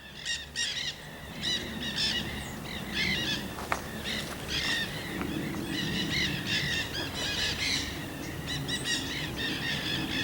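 A flock of nanday parakeets calling: bursts of short, shrill, arched chirps that keep coming in clusters throughout.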